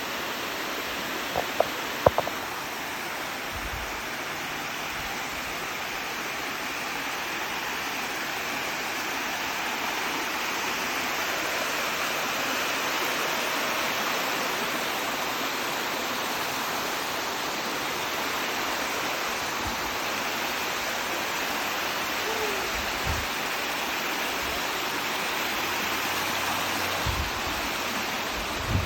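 Creek water rushing steadily, an even rushing sound. A few sharp clicks come about two seconds in.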